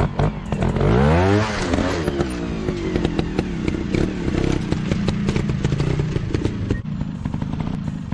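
Dirt bike engine revving up hard about a second in, then easing back and running on at lower revs, with many short knocks and clatter throughout.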